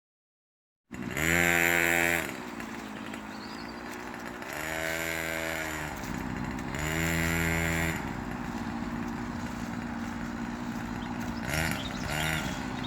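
Small motocross bike engine revving three times, each rev rising and falling in pitch, with a steady idle between. Two short blips of throttle come near the end.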